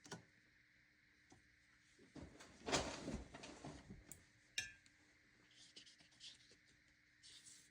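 Faint, scattered clinks and scrapes of a paintbrush working in a watercolor palette and water cup, loudest in a short cluster about three seconds in.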